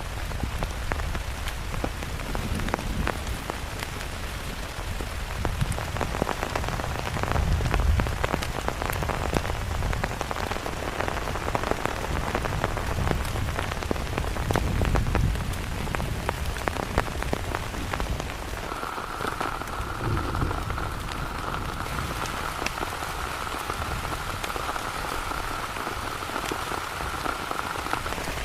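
Heavy rain pattering densely on a surface, with low rumbling swells in the first half. A steady high tone comes in about two-thirds of the way through and holds until near the end.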